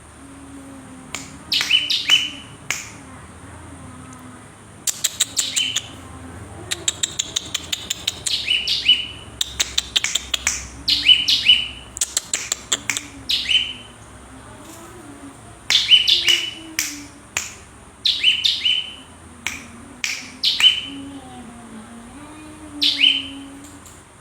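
Cinereous tit (gelatik batu) singing in bouts of sharp, high chirps that drop in pitch, mixed with rapid runs of quick clicking notes, with short pauses between bouts.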